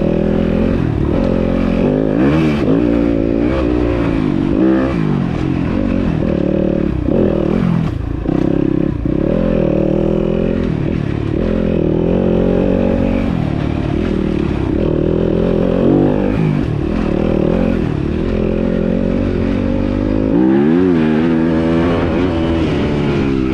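Dirt bike engine being ridden on a rough trail, its pitch rising and falling again and again as the throttle is opened and closed.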